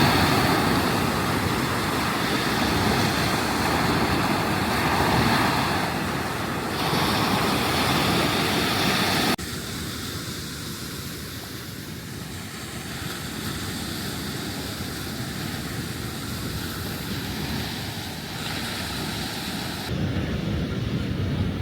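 Ocean surf washing on the beach, with wind on the microphone. The sound drops suddenly about nine seconds in to quieter surf.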